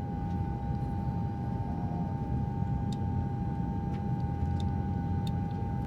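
Steady low rumble of a running vehicle, with a constant high whine over it and a few faint ticks.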